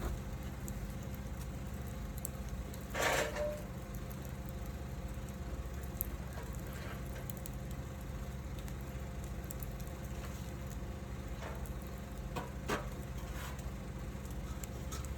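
Wood fire burning: sparse crackles and pops, with a louder burst of crackling about three seconds in, over a steady low background rumble.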